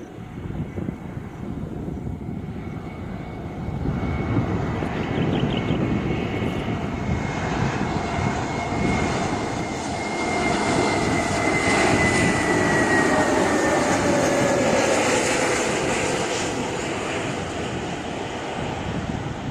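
Airbus A321neo jet airliner passing on its landing. The engine noise swells to a peak, with a whine that falls slowly in pitch as it goes by, then eases off.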